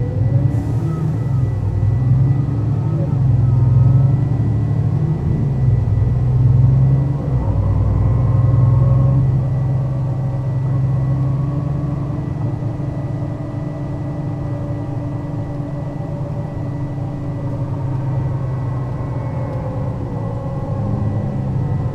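Mercedes-Benz O 530 Citaro city bus's diesel engine and ZF automatic gearbox running while driving, the engine note rising and falling as it pulls away and shifts, loudest in the first half and settling to a steadier run. A short hiss of air about half a second in and a thin steady whine throughout.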